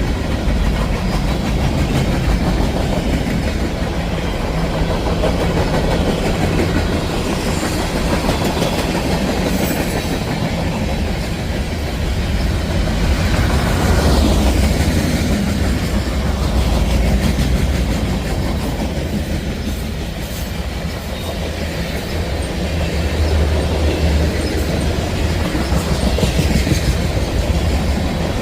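CSX freight train rolling past, its cars' wheels clattering steadily on the rails.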